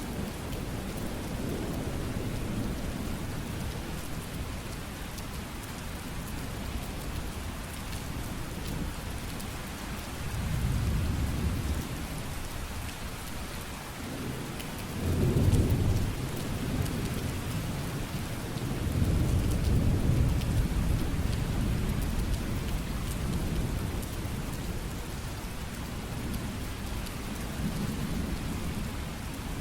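Steady heavy rain hissing on surfaces, with rolls of thunder rumbling low several times; the loudest clap comes in sharply about halfway through, and another long roll follows a few seconds later.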